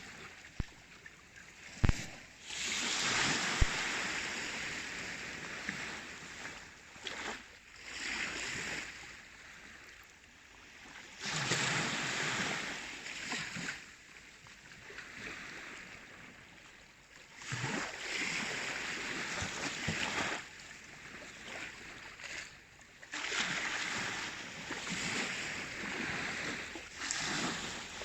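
Baltic Sea waves washing in, a hissing rush that swells and falls away every five or six seconds. Two sharp knocks in the first few seconds.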